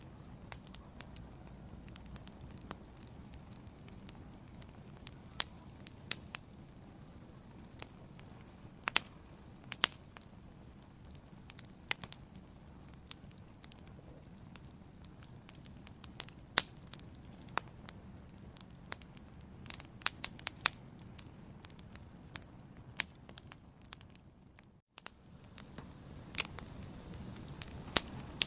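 Wood fire burning in a fireplace: a low, steady rumble of flames with sharp crackles and pops at irregular intervals, a few of them loud snaps. The sound drops out for a split second about 25 seconds in.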